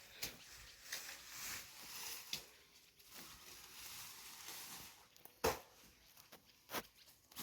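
A hand hoe chopping into garden soil, with half a dozen irregular strikes and scraping and rustling between them. The loudest strike comes about five seconds in.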